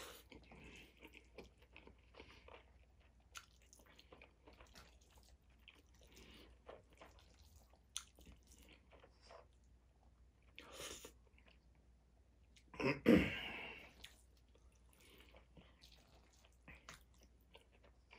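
Faint chewing and mouth noises of a man eating chicken and rice quickly, with small clicks and scrapes of a utensil in a stainless steel bowl. One louder burst of noise about thirteen seconds in.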